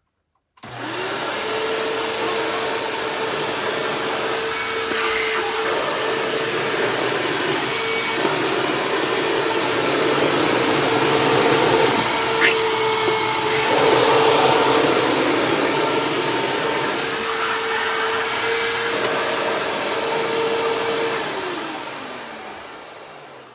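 Hoover WindTunnel self-propelled upright vacuum cleaner switched on about half a second in, running steadily with a constant whine through a pass over shredded paper on carpet. It is switched off near the end, its motor winding down with a falling pitch.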